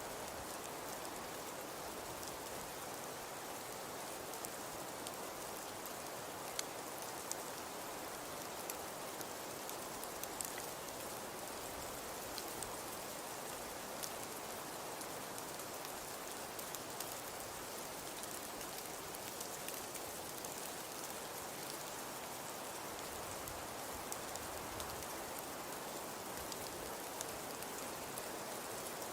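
Fireplace crackling: a steady soft hiss with scattered sharp pops.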